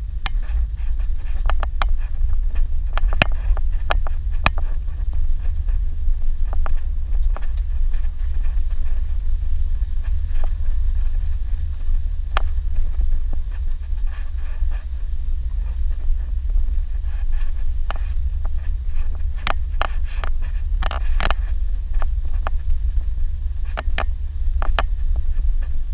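Suzuki Jimny driving on a dirt road: a steady low rumble of engine and road, with scattered sharp knocks and rattles, more of them near the end.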